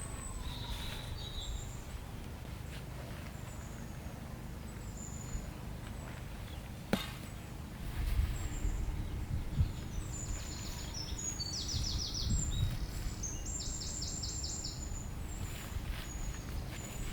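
Wind buffeting the microphone as a steady low rumble, with small birds chirping and a quick trilled run of notes about two-thirds of the way through. A single sharp click about seven seconds in.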